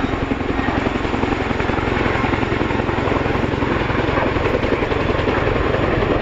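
Boeing Chinook twin-rotor helicopter in low display flight, its rotor blades chopping in a rapid, even beat over the turbine noise, growing slightly louder.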